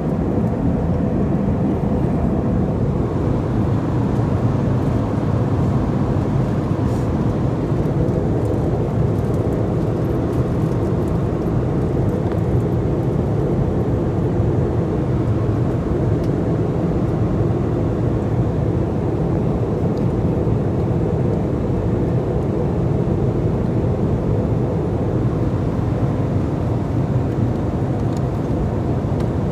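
Airliner cabin noise in flight: the steady drone of the engines and rushing air, even throughout, with a faint steady hum.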